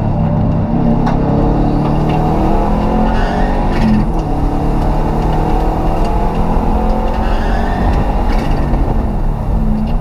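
Race car engine heard from inside its stripped cabin, running hard under load, its pitch rising and falling with the throttle and gear changes, with a clear break about four seconds in.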